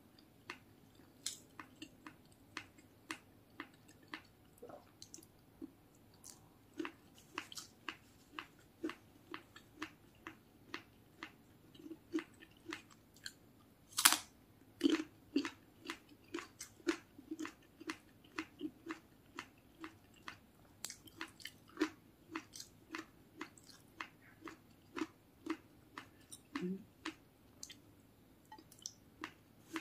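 Close-up chewing of fried rice, a steady run of small moist clicks about twice a second, with one louder bite about fourteen seconds in.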